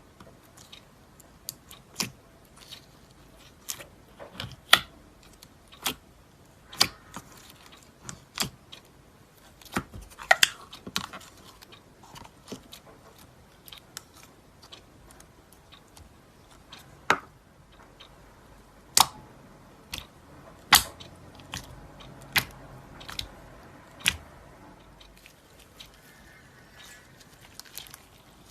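Slime being handled, giving sharp, irregular pops and crackles, about one or two a second, with a few louder cracks.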